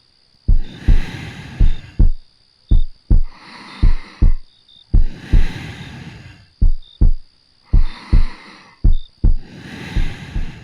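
A slow heartbeat close up: paired low lub-dub thumps about once a second. Soft, slow breathing swells in and out between the beats.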